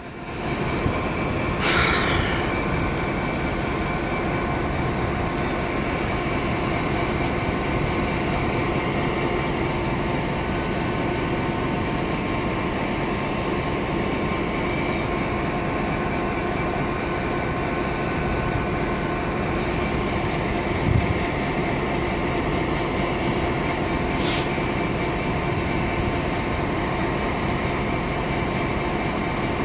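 A GWR Class 802 Intercity Express Train running steadily on its underfloor diesel engines, with a constant machine drone and hum. A brief high squeal comes about two seconds in and another late on.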